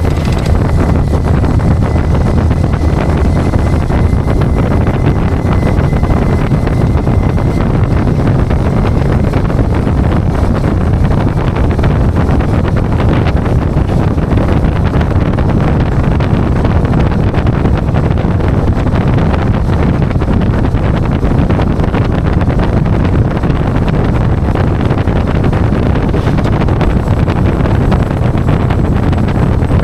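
Tow truck on the move: a steady, loud rumble of engine and road noise, with wind buffeting the microphone.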